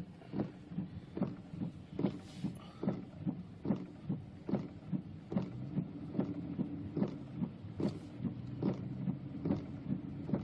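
A running machine gives a steady low hum, with a sharp, even knock repeating a little more than once a second.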